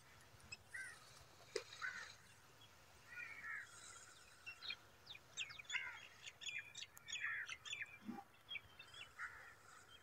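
Several birds calling and chirping: short separate calls throughout, busiest in the middle.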